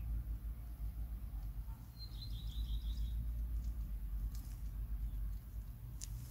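A bird's short trill of about eight rapid high chirps, about two seconds in, over a steady low rumble.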